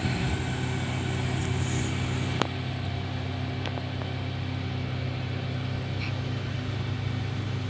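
An engine running steadily at an even speed, with one sharp click about two and a half seconds in.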